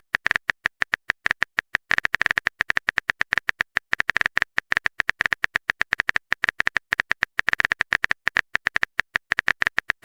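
Rapid, uneven run of short sharp clicks, about eight to ten a second: a keyboard typing sound effect marking a text message being typed.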